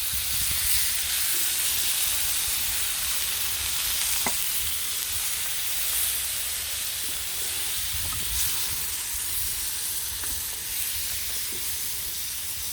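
Onions and freshly added chopped tomatoes sizzling steadily in a hot pan, with a few faint ticks.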